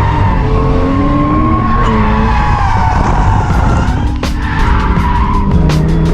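Barra-swapped R31 Skyline's Ford inline-six engine revving up and down while drifting, with the tyres squealing throughout. A few sharp cracks come in the second half.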